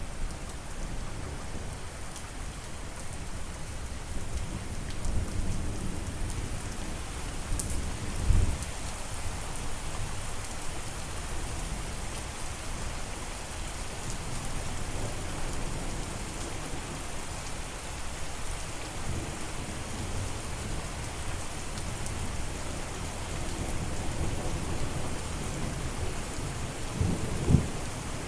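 Steady rain with low rolls of thunder, the loudest rumbles about 8 seconds in and again near the end.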